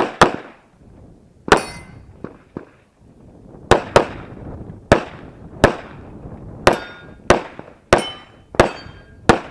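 Handgun shots fired during a practical shooting stage: about a dozen sharp reports in quick pairs and singles, some followed by a short metallic ring.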